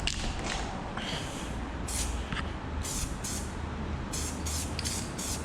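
Aerosol spray paint can hissing in several short bursts as thin coats are laid on a car body panel, starting about two seconds in and coming roughly once a second, over a steady low hum.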